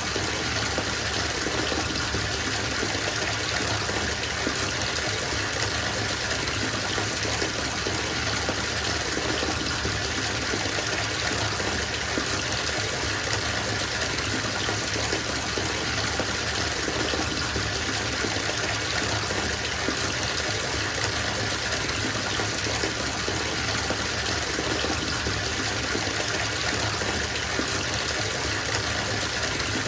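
Bathtub filling from the tap: a steady gush of water pouring into the tub, even and unbroken.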